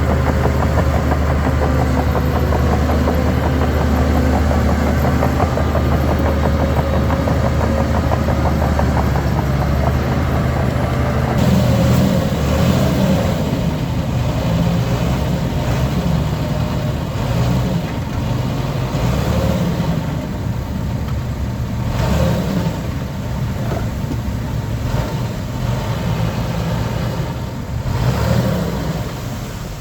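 Heavy diesel earthmoving machinery running: a steady low engine drone for about the first eleven seconds, then an uneven sound that rises and falls as the engine works under load, with a few brief harsh noises.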